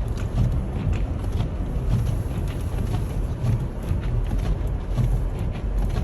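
Car driving through deep snow, heard from inside the cabin: a steady low rumble with irregular low thumps and light knocks as the tyres work through the snow.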